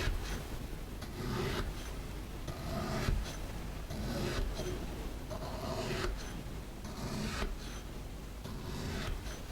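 Kinetic sand being worked, with a scraping stroke about every second and a half, seven in all.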